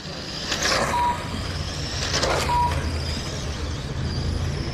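RC race cars running laps, their motors giving a wavering high whine, with two cars swelling loud as they pass about half a second and two seconds in. Each pass is followed by a short beep from the lap-timing system.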